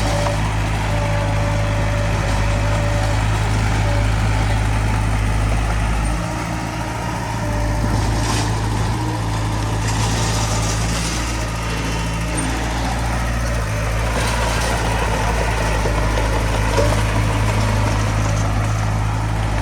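Diesel engine of heavy earthmoving machinery running steadily with a low, even drone, with a noisier stretch about ten seconds in.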